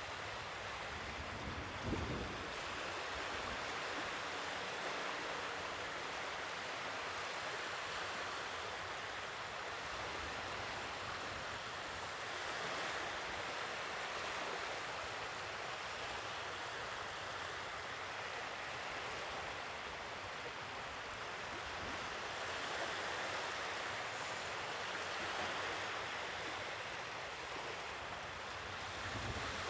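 Sea waves washing ashore in a steady surf, rising and falling slowly in level. There is a brief low thump about two seconds in.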